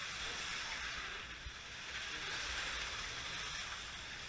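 Slot cars racing on the track: a steady whir and hiss from their small electric motors and guide pickups, swelling and easing slightly as the cars circle.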